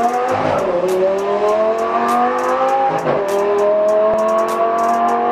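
Lamborghini Gallardo's V10 engine accelerating hard from a standing start on a drag strip, its pitch climbing, dipping at a gear change about half a second in and again about three seconds in, then climbing again.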